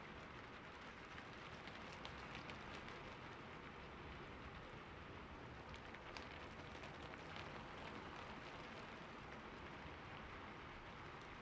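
Steady rain falling on a roof, a constant soft hiss with many small drop taps scattered through it.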